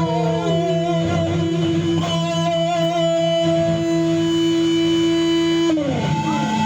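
Band playing in a studio sound check: a guitar holds long notes over a steady low note, bending down in pitch about half a second in and sliding down near the end before a new note begins.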